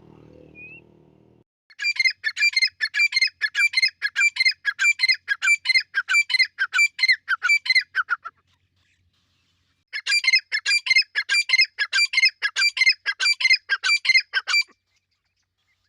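Teetar (francolin) calling: a fast, steady series of sharp, squawking notes, about four a second, for some six seconds. After a pause of under two seconds, a second run of about five seconds follows.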